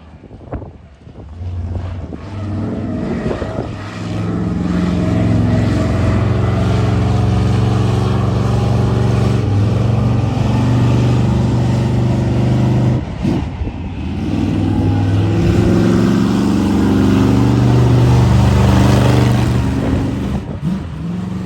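A big vehicle engine running loudly at a fairly steady pitch. It builds up over the first few seconds and dips briefly a little past halfway.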